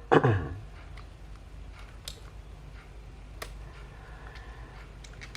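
A few faint, separate clicks and taps from a mirrorless camera body being handled, over a steady low hum.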